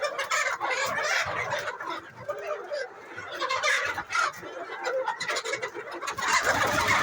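A large flock of chickens clucking continuously inside a poultry house, many birds calling over one another; the noise grows louder about six seconds in.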